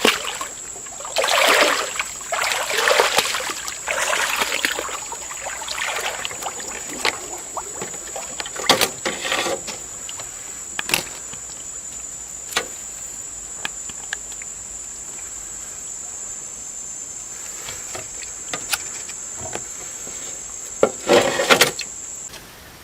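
Bursts of splashing, sloshing water, loudest in the first few seconds and again briefly near the end, with a few sharp knocks in between and a steady high-pitched whine throughout that cuts off suddenly near the end.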